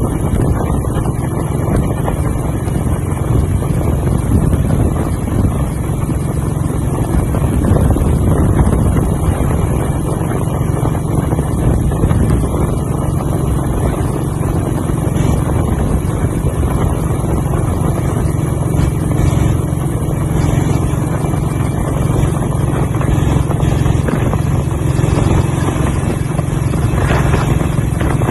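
BSA WM20 motorcycle's single-cylinder side-valve engine running steadily, with wind noise on the microphone.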